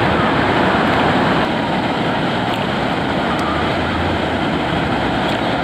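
Steady wash of surf with wind noise on the microphone.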